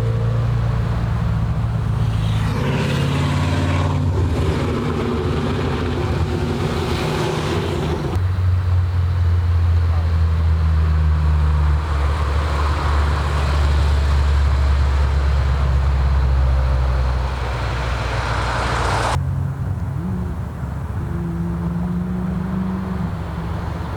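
Car engines running at low, fairly steady revs as cars pull out slowly, with a deep exhaust drone. The sound changes abruptly twice, about a third of the way in and again late on, as one car gives way to the next.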